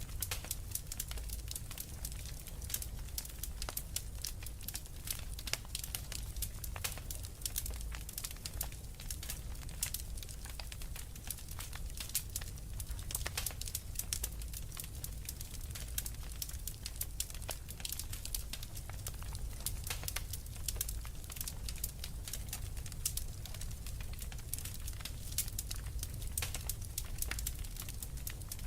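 Wood fire crackling steadily, with many sharp pops and snaps over a low, even rumble.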